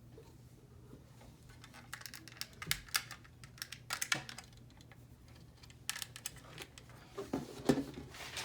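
Small, irregular plastic clicks and taps of snap-together model kit parts being handled and pressed together, with a cluster of clicks near the end.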